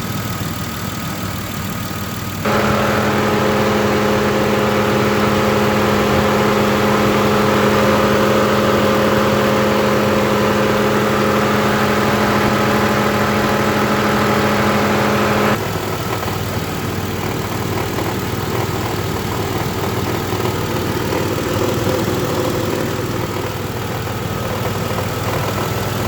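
2007 Mitsubishi Outlander idling with its A/C compressor cycling. A few seconds in, a louder steady hum and whine cuts in abruptly and holds for about thirteen seconds, then cuts out, leaving the plain idle. The compressor is low on refrigerant and not pumping enough pressure.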